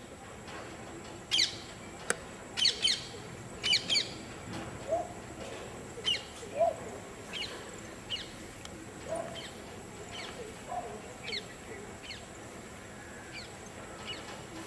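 Birds chirping: short, sharp, falling calls repeated every second or so, loudest in the first few seconds, with a few lower calls mixed in.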